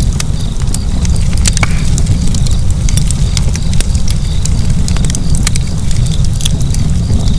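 Wood fire burning, with many sharp, irregular crackles and pops over a loud, steady low rumble of the flames.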